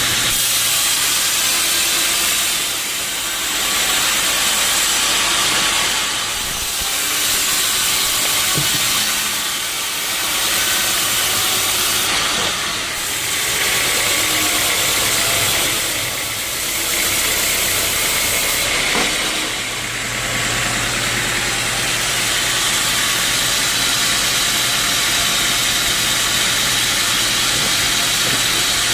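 Sawmill saw running and cutting teak logs: a loud, steady hiss of the blade in the wood that swells and dips every few seconds, then holds steady with a low machine hum from about twenty seconds in.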